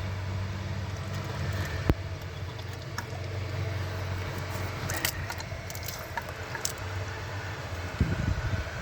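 Classic car's engine idling steadily, with a few sharp clicks over the top.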